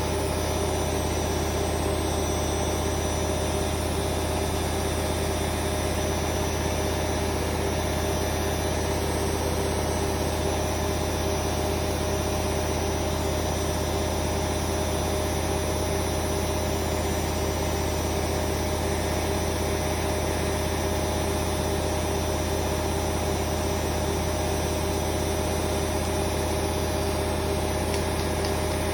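Hoover Vision Dynamic washing machine spinning at a steady speed: a constant motor and drum hum with a steady whine.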